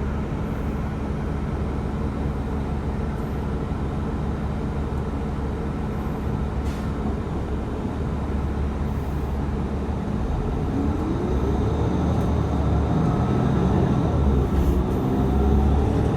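TTC city bus riding, with a steady engine and road rumble. About ten seconds in it speeds up: the drivetrain's pitch rises and it grows louder.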